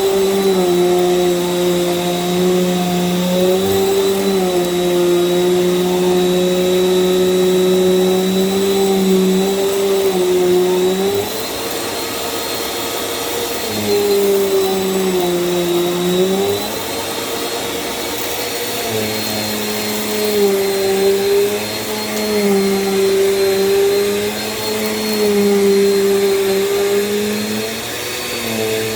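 Small Bissell vacuum cleaner running steadily, with a motor hum and a thin high whine. Its pitch and loudness dip and recover every few seconds as the load on the motor changes.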